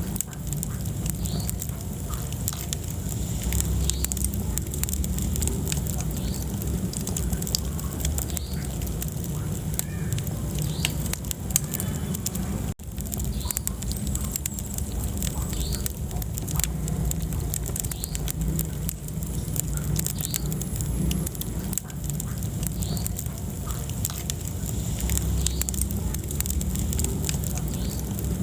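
Wood fire crackling in a fireplace, with frequent irregular pops over a steady low rumble of the flames. The sound cuts out for a moment about halfway through.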